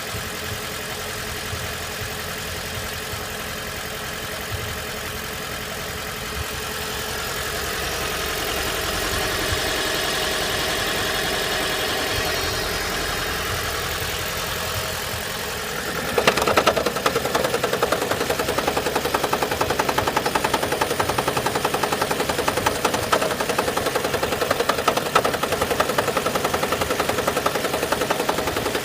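Toyota Prius 30's 1.8-litre petrol engine running cold. A steady hum swells and eases over the first half. About halfway through, a rapid, even knocking starts suddenly and keeps going: the cold-engine knock whose cause the owner does not know.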